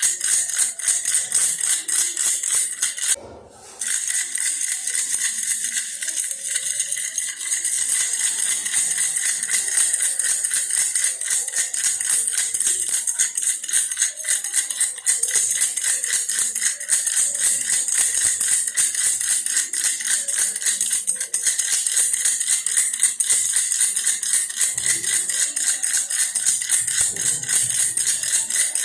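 Baby's toy bear rattle shaken fast and continuously, a dense high-pitched rattling that stops briefly about three seconds in and then carries on.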